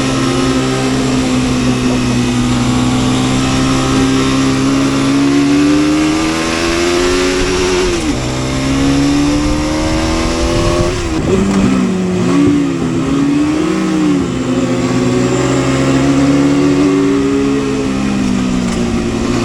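Motorcycle engine under way, its pitch climbing slowly and dropping sharply at a gear change about eight seconds in, then rising and falling several times in quick succession around twelve to fourteen seconds before settling, with wind rush on the microphone.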